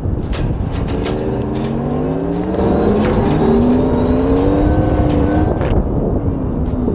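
Tarform electric motorcycle's direct-drive motor whining, its pitch climbing as the bike speeds up and dropping back near the end, under heavy wind buffeting on the microphone.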